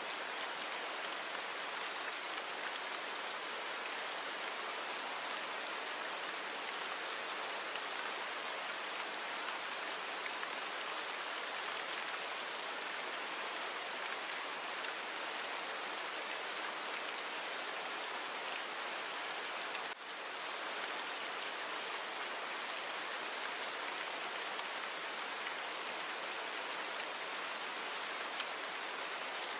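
Steady rain falling, an even hiss of many drops with no thunder, from a natural rain recording cleaned up with noise reduction. The level dips briefly about two-thirds of the way through.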